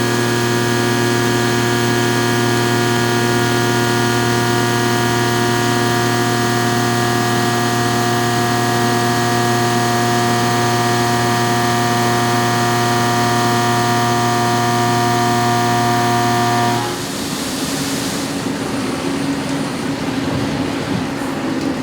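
CNC machining center milling a spiral flute into a steel rifle bolt with an indexable carbide cutter under flood coolant: a steady, many-toned machining whine over a hiss. The whine stops about seventeen seconds in as the cut ends, leaving the hiss and splash of coolant spray.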